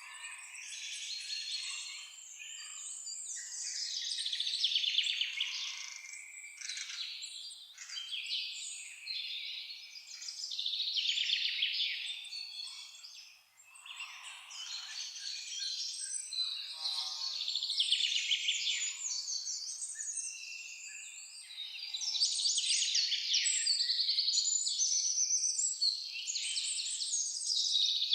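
A chorus of songbirds, several singing over one another in rapid trills and chirps, swelling and easing, with a brief lull about halfway through.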